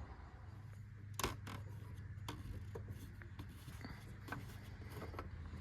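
Faint clicks and light rubbing of the oil filler cap being twisted off the 5.7L Hemi's valve cover, over a faint steady low hum.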